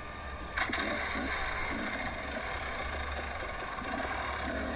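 Dirt bike engine running steadily, with a noisy hiss that steps up about half a second in.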